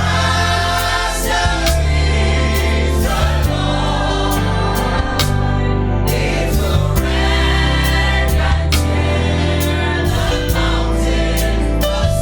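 Christian worship song with a group of voices singing over a bass line and a steady drum beat.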